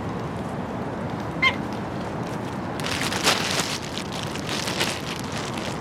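A seagull gives one short call about one and a half seconds in, over steady outdoor background noise. From about three seconds in, a rush of fluttering noise lasts for about two seconds.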